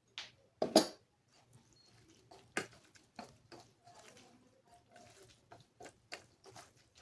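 Eating sounds of rice with dal being mixed by hand and eaten: an irregular string of short wet clicks and smacks, with one louder burst just under a second in.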